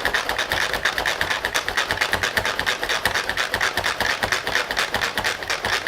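Hand-operated manual food processor chopping red onion, its blades turning with a fast, steady clatter of clicks, about ten a second.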